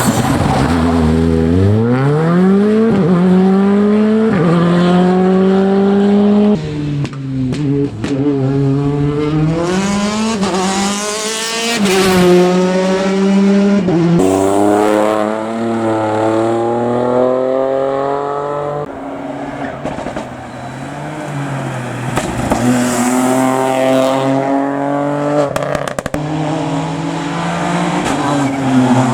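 Rally car engines accelerating hard through the gears: the engine note climbs steeply and drops back at each upshift, over and over, with brief dips in loudness between pulls.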